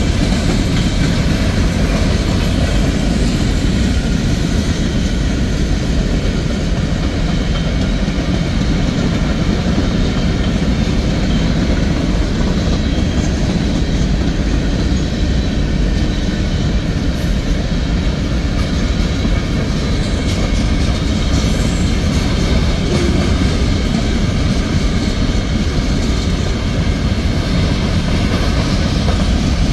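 Freight train of rock hopper cars rolling past: a steady, deep noise of steel wheels running on the rails that keeps on without a break.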